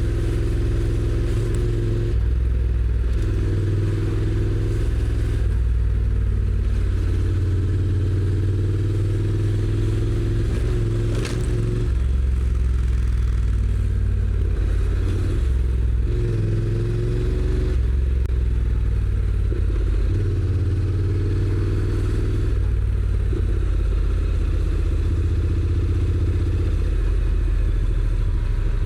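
Honda NC750X DCT's parallel-twin engine through its stock exhaust, running under way with the engine note rising and falling repeatedly with throttle and gear changes. A single sharp click about 11 seconds in.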